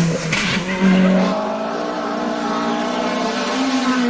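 Rally car engine running hard at high revs, its pitch holding fairly steady and then climbing near the end as it accelerates. About half a second in there is a brief rushing burst of tyre or skid noise.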